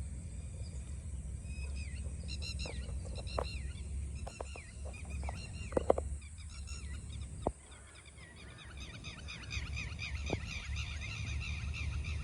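Birds calling: many short, repeated, arching calls from several birds, densest in the second half, over a steady low rumble with a few sharp clicks.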